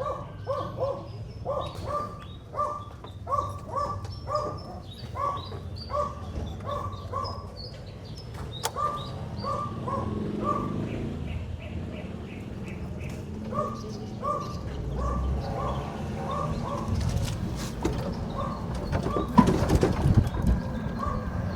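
An animal's short, high calls repeated two or three times a second, thinning out midway and picking up again, over a low steady background noise. A louder rustling clatter comes near the end.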